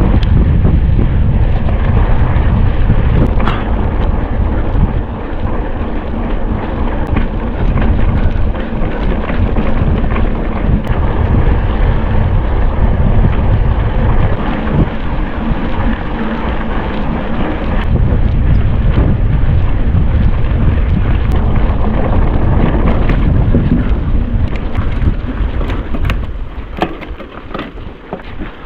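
Wind buffeting the microphone of a camera on a mountain bike at speed, mixed with tyre rumble and the bike's rattles and knocks over rough ground. It dies down over the last few seconds.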